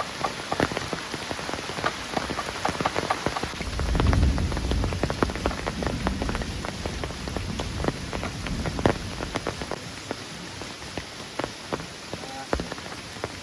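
Heavy rain falling, with many sharp drops striking a nearby surface. A low rumble swells up about four seconds in and fades over the next couple of seconds.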